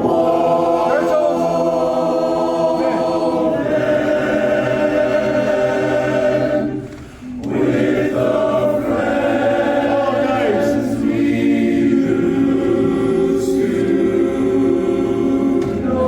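Barbershop chorus singing a tag a cappella in four-part harmony, in long held chords. There is a short break about seven seconds in before the singing resumes.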